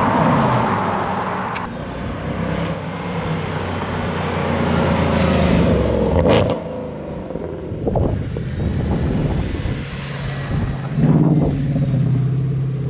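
V8 car exhaust under hard acceleration, the engine note rising and falling as the revs change. There is a sharp crack about six seconds in, and the revs climb again near the end.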